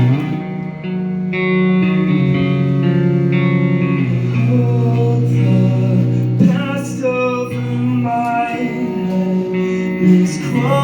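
A live rock band plays a song on electric guitars and bass, holding chords that change every second or two. About four seconds in, a bending, wavering melodic line comes in over them.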